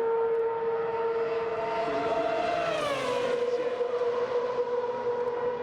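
Ferrari Formula 1 car engines held at a steady high pitch. One engine's note rises a little and then slides back down to the same pitch about three seconds in.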